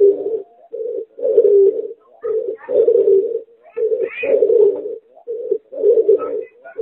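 Pigeon × spotted dove hybrid cooing: a steady run of short, low coo notes, about three every two seconds, with faint higher chirps between some of them.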